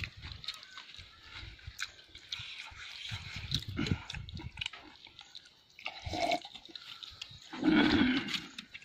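Wet chewing and lip-smacking mouth sounds of people eating chicken and rice by hand, with small irregular clicks and smacks. A brief, louder voice-like murmur comes near the end.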